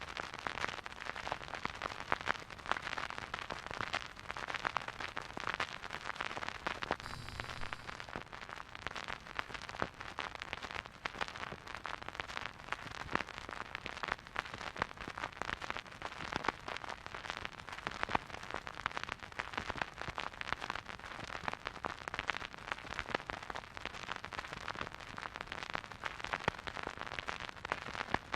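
Record player stylus tracking a silent vinyl groove: a steady hiss with dense, irregular crackles and pops of surface noise from a dusty record. About seven seconds in there is a brief low rumble.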